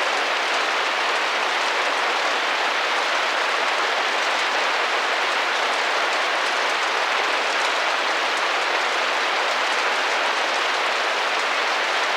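Steady rain drumming and tapping against a window pane, an even hiss of many drops without let-up.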